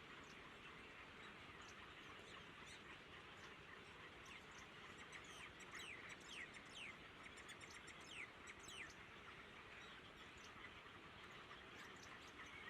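Faint high chirps from small birds at a nest: a run of quick, downward-sliding chirps in the middle, over a steady hiss.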